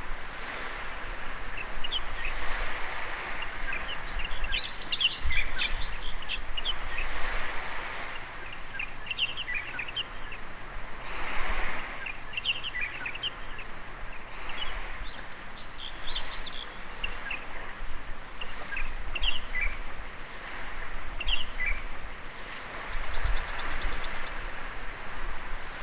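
Small waves washing onto a sandy beach, swelling and fading every few seconds, with birds chirping in quick scattered runs of short calls.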